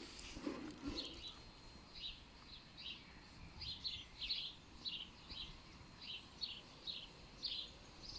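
A small bird chirping: a long series of short, high notes, about two or three a second, over faint outdoor background noise.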